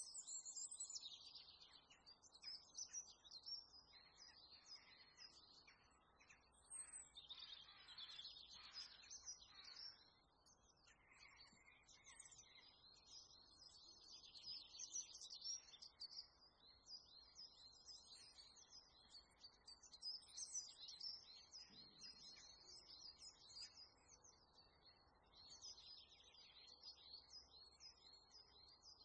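Faint birdsong: many small birds chirping and twittering in quick, high-pitched runs.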